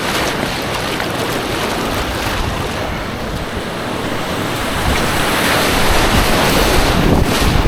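Rushing white water of an artificial kayak course close to the camera, with wind buffeting the microphone; the water noise gets louder about five seconds in.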